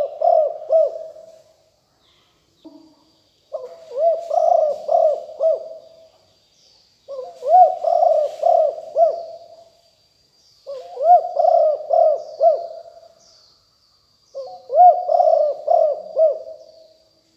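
Spotted dove cooing: phrases of several quick low coos, four full phrases about every three and a half seconds. Faint high chirps of small birds and a thin steady high tone sound behind.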